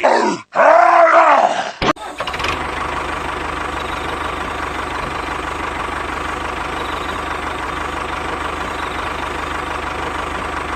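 A motor starts running about two seconds in and keeps a steady, even hum at constant speed.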